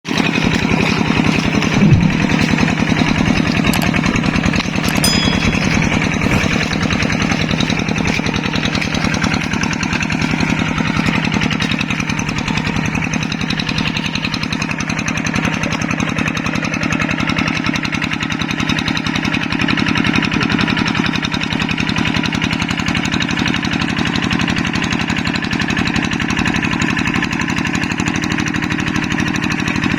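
Yanmar paddy tractor's diesel engine running steadily under load, a fast even chugging. There is a brief louder swell about two seconds in.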